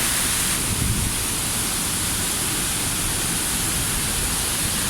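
Tall waterfall crashing down, a steady full rushing roar of falling water.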